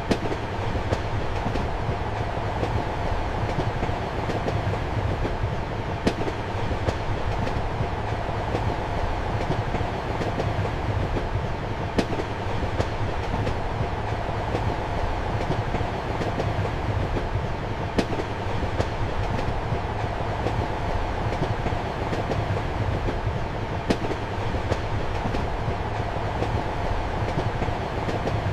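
Steady rumble and hum of a moving passenger train heard from inside a compartment, with wheel clicks over the rail joints; a sharper click comes about every six seconds.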